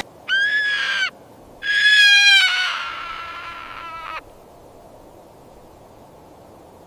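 A bird giving two loud, harsh, screaming calls, the second longer and trailing off, then faint background hiss.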